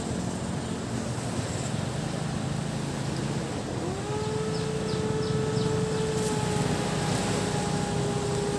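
Motorboat engine running steadily, its pitch rising and then holding about four seconds in, over the wash of surf and a steady high cicada drone.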